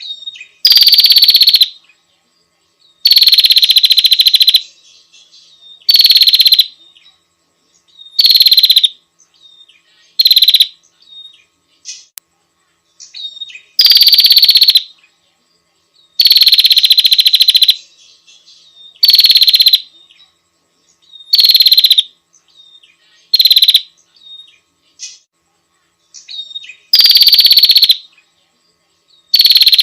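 Female prinia (prenjak) calling: a buzzing rattle of rapid notes, given in loud bursts of one to two seconds, about eleven of them, with short faint chirps in between. It is the female's call to males.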